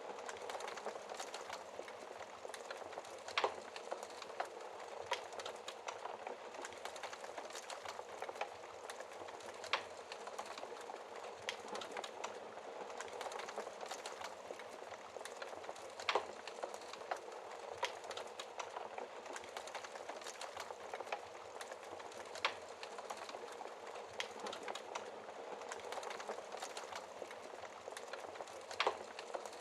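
Wood fire burning in a fireplace: a steady crackle of small snaps and hiss, with a sharper, louder pop about every six seconds.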